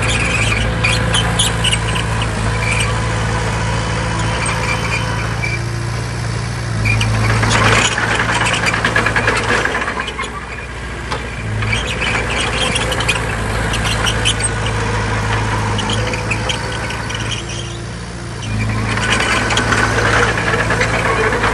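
Diesel engine of heavy earthmoving machinery running steadily, with a high squeal over it. It grows louder twice, about a third of the way in and near the end.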